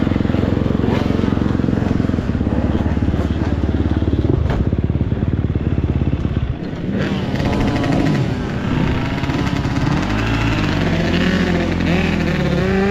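Motocross dirt bike engine running hard at a steady high pitch, then revving up and down repeatedly in the second half as the throttle is worked.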